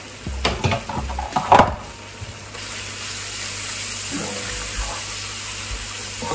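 Onion, tomato and spice masala sizzling in a wok while a spatula stirs and scrapes the pan, with a sharp knock of the spatula about one and a half seconds in. After about two seconds the stirring stops and only a steady sizzle of frying remains.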